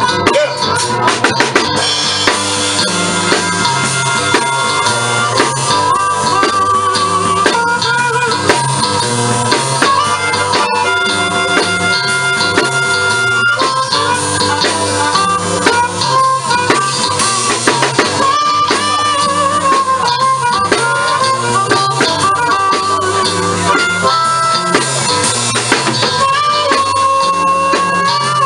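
Live blues band playing an instrumental break: a drum kit keeps a steady beat under a stepping bass line while a lead instrument plays long, wavering solo notes.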